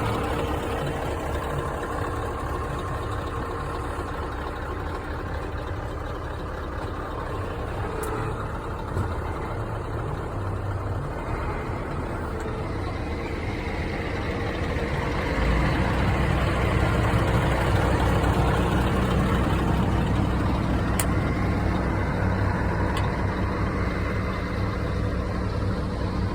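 Scania R500 truck's diesel engine running steadily, getting louder about halfway through.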